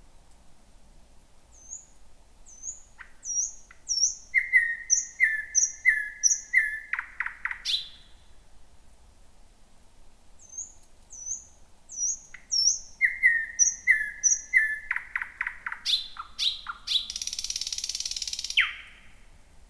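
Thrush nightingale singing two song phrases, each a series of repeated whistled notes speeding into a fast run of dry clicks, with a short pause between them. The second phrase ends in a harsh buzzing rattle lasting about a second and a half.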